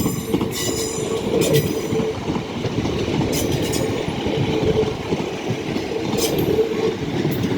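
Class 150 diesel multiple unit, coupled to a Class 156, departing: its diesel engines run under power with a steady droning tone, and a few sharp clicks come from the wheels.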